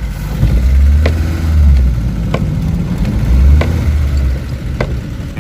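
Old car's engine running with a loud low rumble that swells twice, and a light sharp tick about every second and a quarter.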